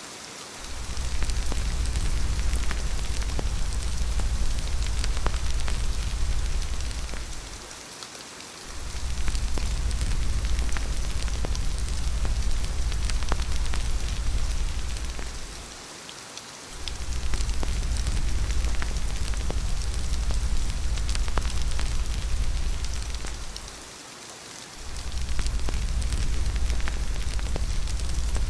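Steady rain falling, a dense hiss with small pattering drops. A deep low rumble runs under it and fades out for about a second roughly every eight seconds.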